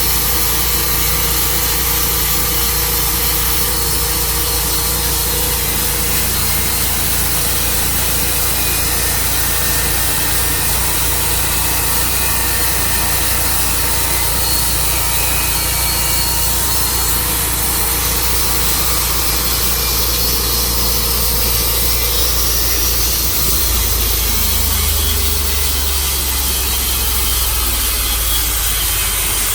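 Gasoline engine of a Tru Cut bandsaw mill running steadily under load while the band blade saws through a large elm crotch. The engine's low note shifts slightly a few seconds before the end.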